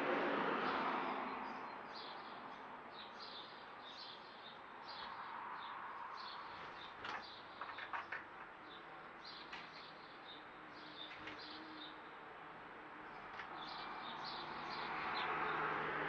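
Small bird giving short, high chirps again and again over a steady background hiss, with a few sharp clicks about halfway through.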